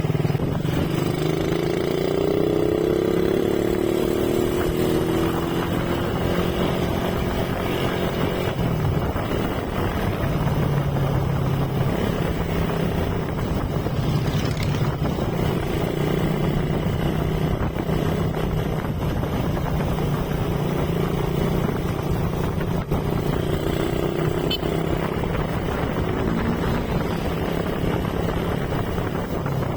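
Motorcycle engine running while riding along a road, its pitch rising in the first few seconds as it speeds up, dipping briefly about nine seconds in, and otherwise holding a steady cruising note.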